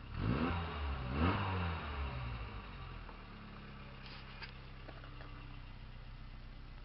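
1972 Mitsubishi Colt engine blipped twice, the revs rising and falling quickly, then settling back to a steady idle. The exhaust has a newly replaced rear muffler.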